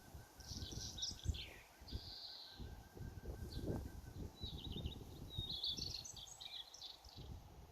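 Songbirds singing in short bursts of chirps and warbles, with a faint even trill running through the first half. A gusty low rumble of wind on the microphone runs underneath.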